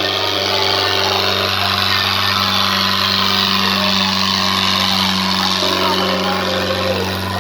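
Tractor diesel engine running steadily with a constant low drone, with indistinct voices in the background.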